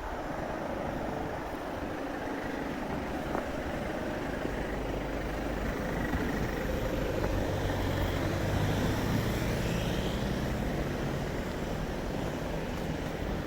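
Steady road-traffic rumble, with a vehicle engine hum that swells about halfway through and then fades.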